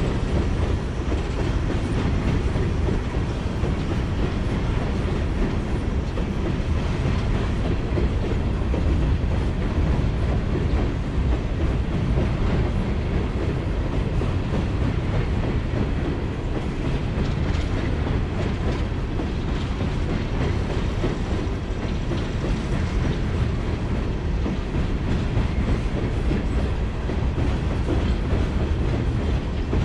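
A freight train's loaded open-top hopper cars rolling past, a steady rumble and clatter of steel wheels on the rails.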